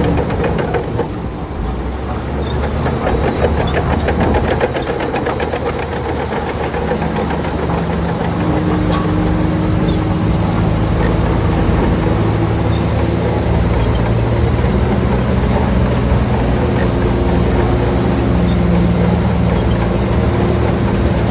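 Heavy diesel engine of earthmoving machinery running loud and continuous, with a fast even knock in the first few seconds, then a steadier drone whose engine tones shift in pitch.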